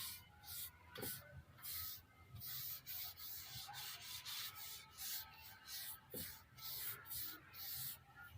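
Repeated dry rubbing strokes on a wooden surface, about two to three a second, each one a short hiss.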